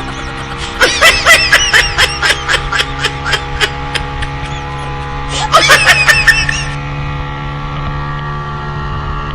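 Towing motorboat's engine running steadily, with people laughing in rapid bursts: a long burst about a second in and a shorter one past the middle, then the engine alone.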